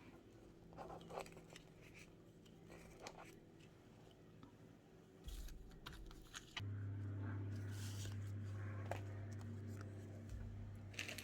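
Faint rustles and clicks of paper and craft pieces being handled. Just past halfway a steady low hum starts, the loudest sound here, and it stops shortly before the end.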